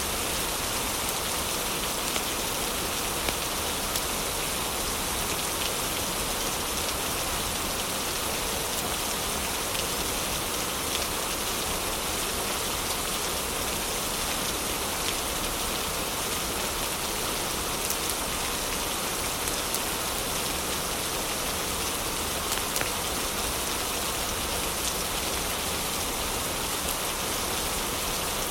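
Steady heavy rain falling without a break, with a few faint sharp ticks scattered through it.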